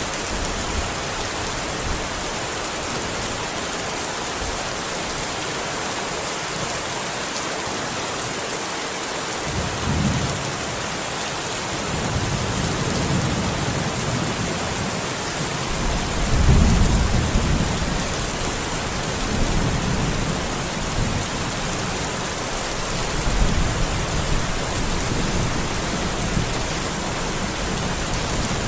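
Steady rain hiss with rolling thunder: low rumbles start about a third of the way in and recur several times, the loudest just past halfway.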